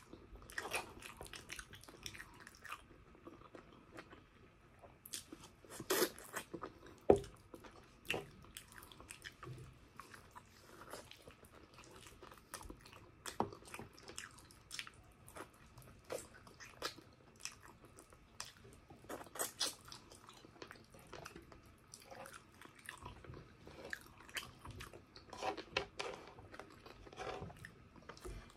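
Close-miked chewing and mouth sounds of a person eating braised pork trotter and rice: an irregular run of short clicks and smacks, the loudest about six to seven seconds in.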